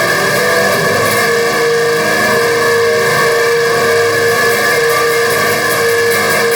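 Heavily distorted electric guitar playing, with one note held for most of the stretch over a dense wall of sustained tones.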